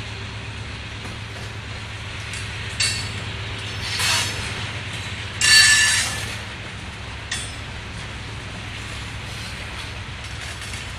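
Freight cars of a BNSF rock train rolling past with a steady low rumble. Brief metallic wheel squeals cut in three times, the loudest about five and a half seconds in.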